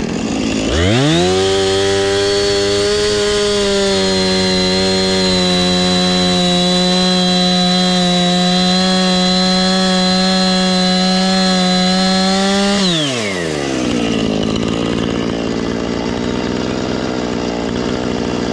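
Husqvarna two-stroke chainsaw revving up from idle about a second in and held at a steady high pitch for about twelve seconds while cutting into a tree, then dropping back to idle.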